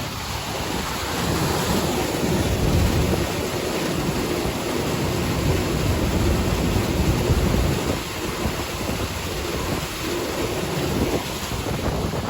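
Wind buffeting the microphone: a loud, uneven low rumble over a steady rushing hiss.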